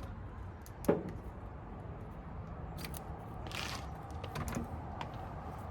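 Light clicks and knocks of small parts and hand tools being handled, the sharpest about a second in, with a brief scraping rustle about three and a half seconds in, over a low steady hum.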